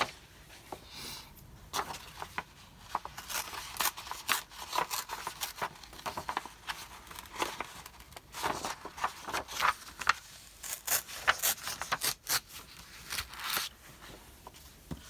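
Sheets of paper being handled and rustled, with many short irregular crinkles, taps and scrapes.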